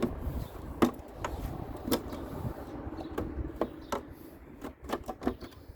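Irregular clicks and knocks as parts of a Peugeot 3008 rear light assembly are handled and worked back into place, over a low background rumble.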